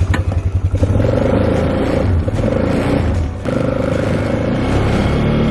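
Four-wheeler (ATV) engine running with a pulsing idle, then picking up revs about a second in and running steadily under way, with a brief dip in level about three and a half seconds in.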